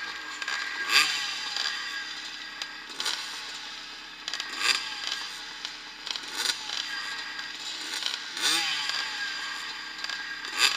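Vintage motocross motorcycles racing, their engines revving hard. The pitch rises sharply about every two seconds as riders open the throttle.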